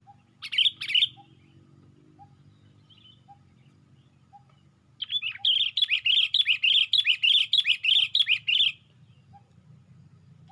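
Sooty-headed bulbul (kutilang) singing: a short burst of two quick phrases near the start, then after a pause a fast run of bubbly, chattering notes lasting nearly four seconds.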